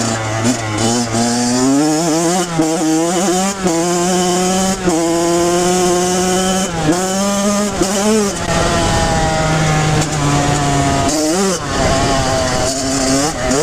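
Kawasaki KX100 two-stroke dirt bike engine under way, revving up and shifting: its pitch climbs and drops back several times in the first half, then holds steadier with a couple of quick rev dips near the end.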